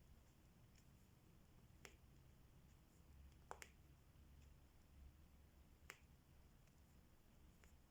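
Faint, sparse small clicks, a few seconds apart with two close together near the middle: a diamond painting pen picking up and pressing resin drills onto the sticky canvas.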